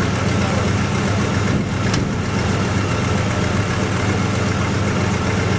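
1974 Dodge engine idling steadily after a cold start, with a cracked exhaust manifold that the owners have found leaking smoke.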